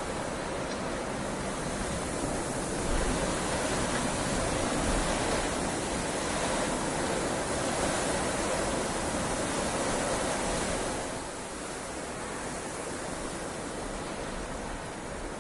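Heavy rain falling in a steady hiss. It grows louder about three seconds in and eases again near the end.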